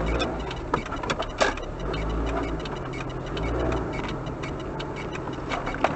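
Car engine running steadily, its low hum drifting slightly in pitch, with scattered sharp clicks and ticks over it.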